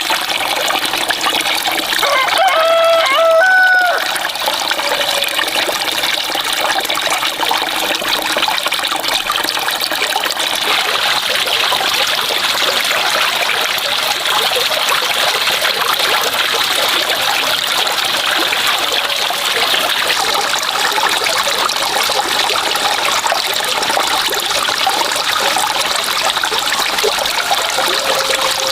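Running water trickling and splashing steadily. A bird calls once about three seconds in.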